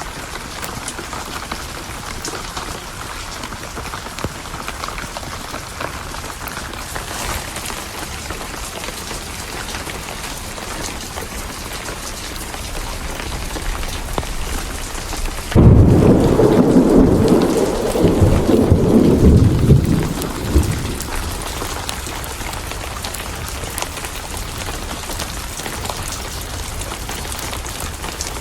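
Steady rain, with a sudden loud thunderclap a little past halfway that rumbles for about five seconds before dying back into the rain.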